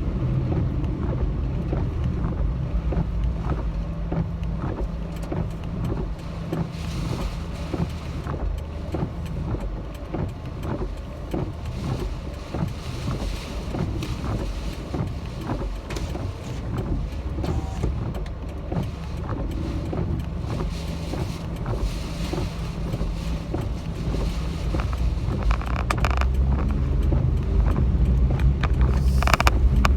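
Car driving, heard from inside the cabin: a steady low rumble of engine and road noise, with rushes of hiss coming and going several times and a louder stretch near the end.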